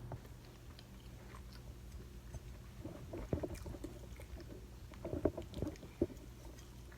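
A person chewing food close to the microphone, in two spells of short wet clicks and smacks, about three seconds in and again about five seconds in.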